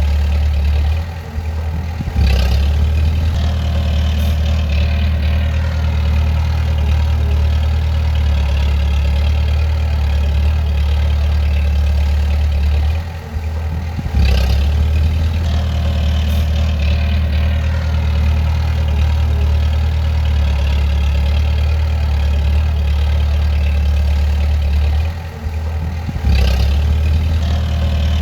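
Bulldozer's diesel engine running steadily with a deep drone. Three times, about twelve seconds apart, it dips briefly in level and comes back with a sharp clank.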